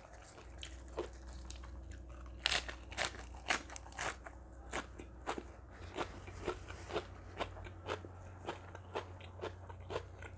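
A person chewing crunchy food, most likely seafood papaya salad, a sharp crunch roughly every half second, with the loudest, quickest bites between about two and a half and four seconds in.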